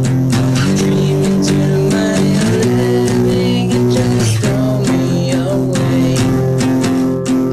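Rock song played on guitars with bass, the chords changing about every two seconds.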